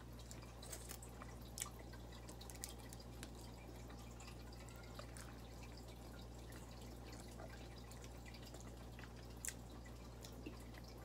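Faint, scattered wet clicks and smacks of chewing fried tilapia eaten with the fingers, over a low steady hum.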